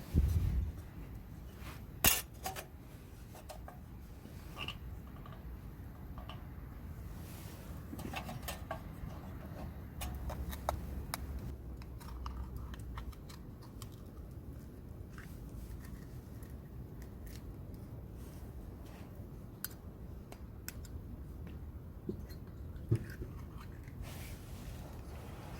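Light clatter of cooking utensils and tableware being handled: scattered clicks and small knocks, with sharp knocks near the start and about two seconds in.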